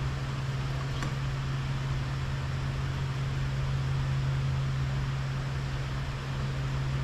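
A steady low machine hum with an even hiss over it, with a faint click about a second in.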